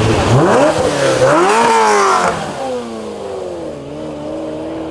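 A car engine revving up sharply twice in quick succession, the second rise going higher. The pitch then falls away and settles into a steady lower note.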